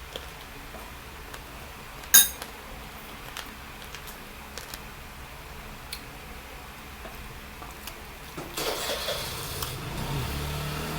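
Scattered light clicks and one sharp click, then near the end a rushing noise followed by a motor starting up and running with a steady low hum.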